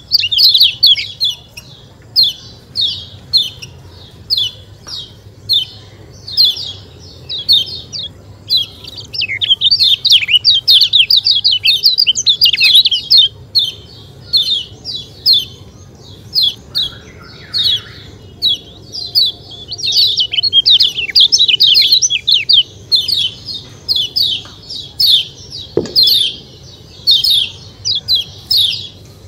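Kecial kuning (white-eye) calling in long runs of quick, high 'ciak ciak' chirps, each chirp falling in pitch, repeated several times a second with short gaps between bursts.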